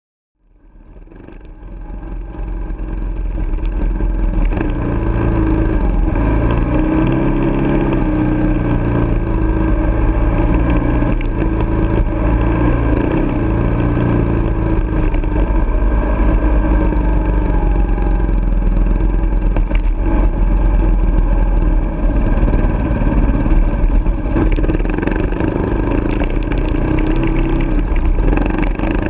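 Kawasaki KLR650's single-cylinder four-stroke engine running as the motorcycle rides a dirt road, its note rising and falling a little with the throttle, over a heavy low rumble. The sound fades in over the first few seconds.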